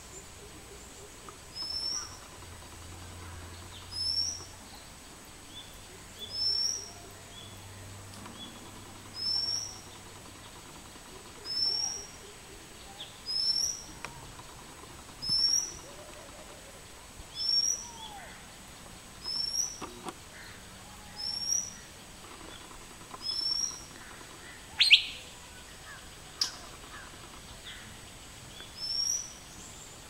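Asian fairy-bluebird calling: a short, high, rising whistle repeated about once every two seconds. One louder, sharp sound comes about three-quarters of the way through.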